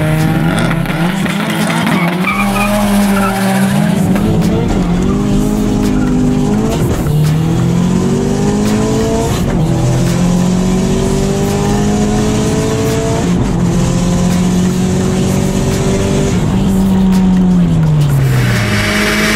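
Turbocharged Subaru flat-four engine accelerating hard from a drag-race launch, heard from inside the car. The engine note climbs and drops back at each of several upshifts, then falls away near the end as the driver lifts off.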